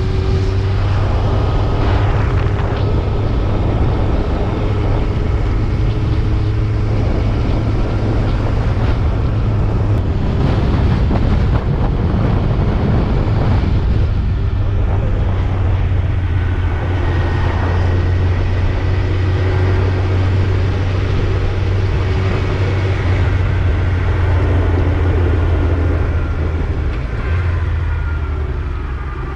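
Yamaha YZF-R1 inline-four engine running steadily while riding, with wind rushing over the microphone. The sound eases off slightly near the end.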